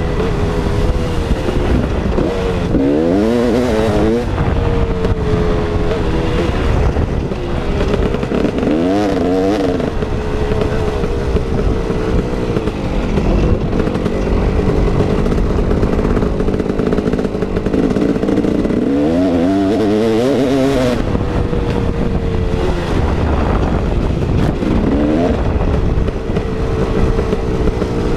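KTM 380 EXC two-stroke single-cylinder dirt bike engine running under riding load, its revs climbing and dropping several times as the throttle is worked and the rider shifts gears.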